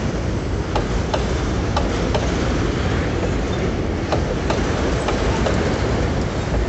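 Empty freight boxcars rolling past: a steady rumble of steel wheels on the rails, with sharp clicks, often in pairs, as the wheelsets cross rail joints.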